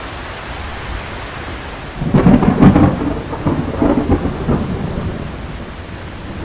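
Steady heavy rain, with a loud clap of thunder about two seconds in that rolls on in several rumbles for about three seconds and then fades back into the rain.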